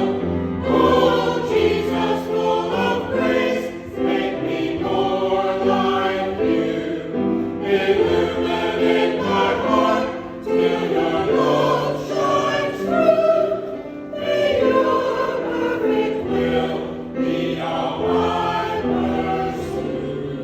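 Church choir singing in harmony, several voices holding notes together and moving from chord to chord.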